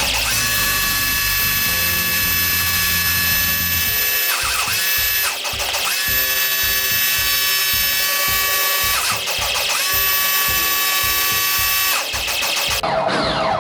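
Electric pressure washer's motor and pump running with a steady whine while spraying, cutting out about four seconds in and starting again a second later as the trigger is let go and pulled, then stopping near the end. Background music with a steady beat plays underneath.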